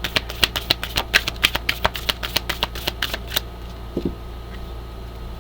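Oracle cards being shuffled by hand: a quick run of crisp card snaps, about eight a second, stopping after about three and a half seconds.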